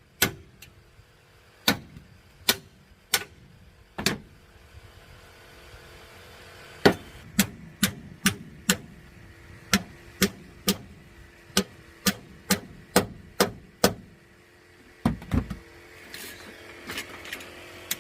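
Hammer blows on the dented rear body panel of a Honda Pilot during collision repair, about twenty sharp strikes in uneven runs, with a pause of a couple of seconds after the first few. Two duller, heavier thumps come close together near the end.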